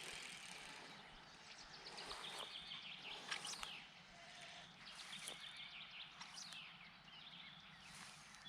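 Faint birdsong: short chirps and quick trilled phrases of rapid repeated notes, over low background noise.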